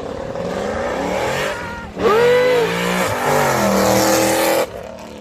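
A car's engine revving hard as it accelerates away, the pitch climbing, then dropping at gear shifts about two and three seconds in. It stops abruptly near the end.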